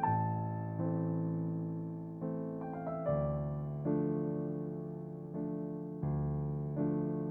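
Slow, gentle piano background music: sustained chords struck about once a second and left to fade, with a short run of higher notes about three seconds in.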